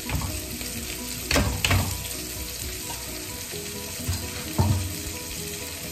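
Chicken masala sizzling in a metal kadai as the spinach's cooking water is poured in through a strainer. Sharp metal clanks of the pot and strainer against the pan come about a second and a half in, and again later.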